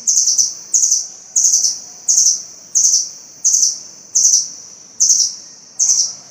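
A small songbird repeating short, very high, buzzy trilled notes, one about every 0.7 seconds, nine in all.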